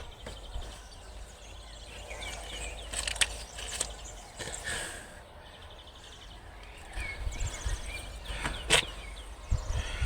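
Outdoor background with a low wind rumble on the microphone and birds chirping, broken by scattered sharp clicks and knocks, the loudest a little before the end.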